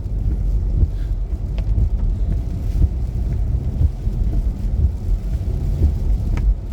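Steady low rumble of a car being driven, engine and tyre noise heard from inside the cabin, with a few faint clicks.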